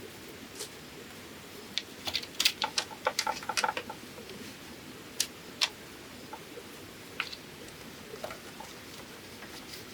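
Light, sharp knocks and clicks of bamboo being worked by hand: scattered single taps, with a quick run of them about two to four seconds in.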